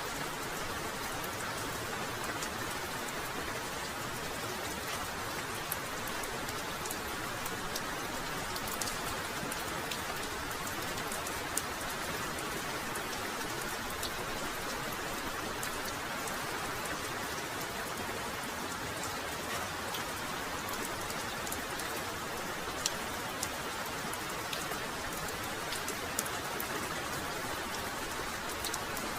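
Very heavy rain falling steadily, with sharp ticks of individual drops striking close by throughout.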